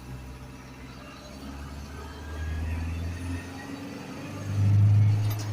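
An Isuzu garbage truck's diesel engine running with a low rumble. It grows louder about two seconds in and swells to its loudest near the end.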